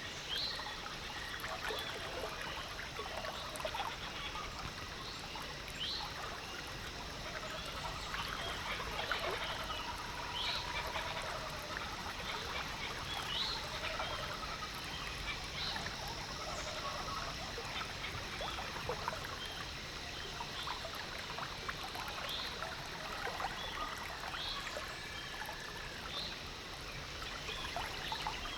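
Lake water trickling and lapping, with short high chirps every few seconds.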